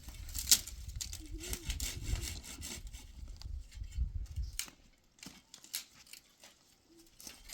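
Wood being sawn by hand: a run of rasping strokes for about four and a half seconds, then a few scattered knocks and scrapes of wood.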